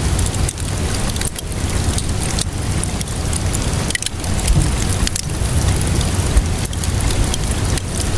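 Steady rainfall mixed with a crackling fire: a continuous hiss of rain over a low rumble, with small sharp crackles scattered through it.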